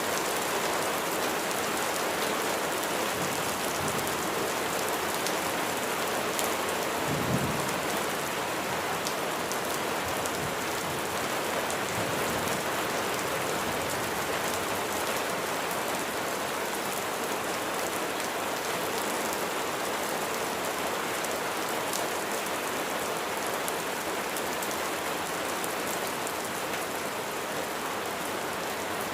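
Steady heavy rain falling on surfaces, an even hiss with scattered drop ticks. A brief low rumble swells about seven seconds in.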